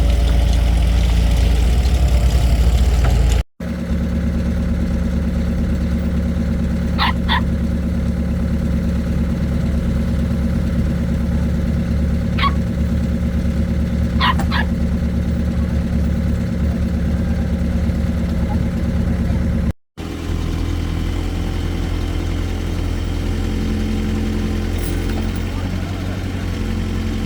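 Excavator engine running steadily with a low drone; the sound drops out briefly twice. A few short, high chirps are heard in the first half.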